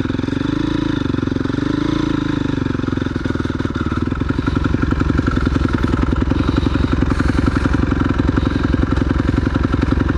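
Single-cylinder four-stroke dirt bike engine running at low speed as the bike rolls along, a fast, steady putter that swells slightly about a second in and gets a little louder from about four seconds in.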